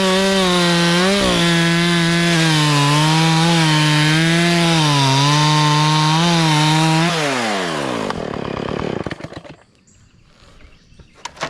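Two-stroke chainsaw running at full throttle, its pitch dipping slightly as it cuts. About seven seconds in the throttle is released and the engine winds down and falls quiet.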